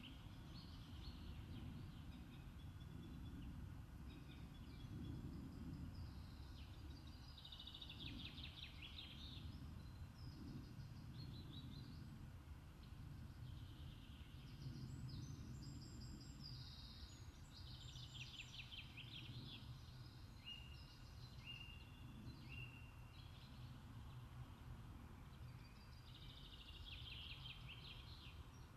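Faint outdoor ambience: small birds singing short, rapid phrases now and then, including a run of three short stepped notes about two-thirds of the way through, over a steady low rumble.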